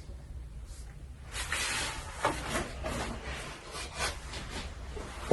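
Repeated scratchy rubbing or scraping strokes, starting a little over a second in and going on in irregular strokes.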